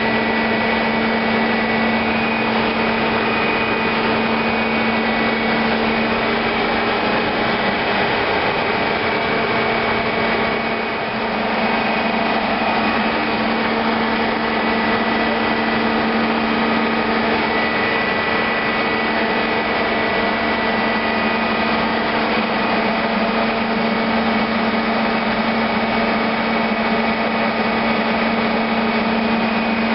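Ship's engine-room machinery running steadily before the main engine is started: a loud, constant hum with several steady tones from the running auxiliary machinery, dipping slightly for a moment about eleven seconds in.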